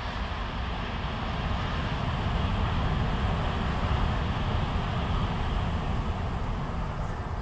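Train running past, a steady rumble that swells to its loudest about halfway through and then fades.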